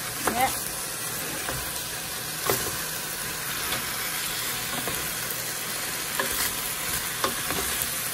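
Chicken drumsticks sizzling in a metal pot as a wooden spoon stirs and turns them: a steady frying hiss with a few short knocks of the spoon against the pot.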